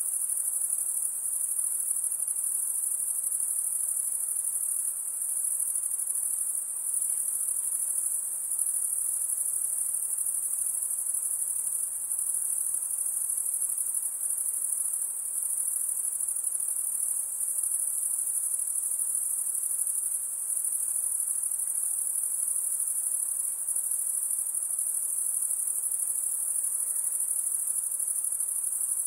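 High-pitched insect chorus: a steady, unbroken shrill trill that holds at an even level.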